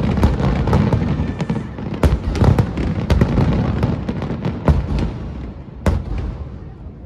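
Aerial fireworks shells bursting in a rapid barrage of bangs and crackles, thinning out toward the end with one last sharp bang.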